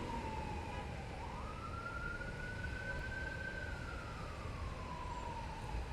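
Emergency vehicle siren in a slow wail: the pitch falls, rises over about a second to a held high note, then slides back down, over a steady low rumble.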